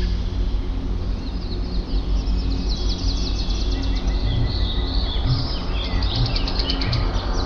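Birds chirping and singing in quick high trills and short calls, over a steady low drone.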